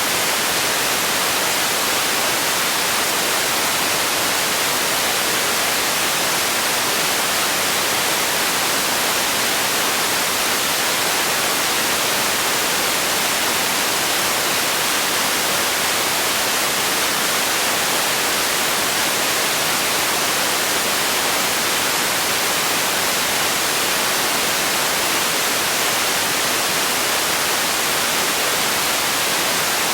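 Steady, unchanging white noise: an even hiss, strongest in the upper range and thin in the bass.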